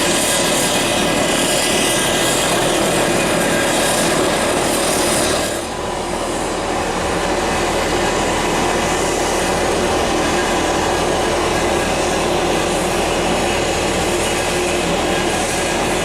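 Business jet's turbofan engines running loud and steady at close range, a rushing roar with a high whine on top, dipping briefly about five and a half seconds in.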